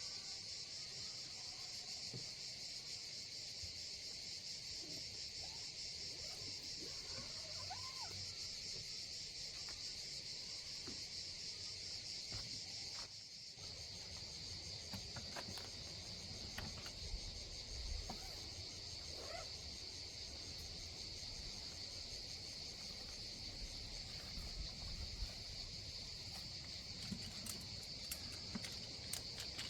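Steady chorus of crickets and other summer insects chirping. Faint short bird calls come through once or twice, and a few sharp clicks come near the end.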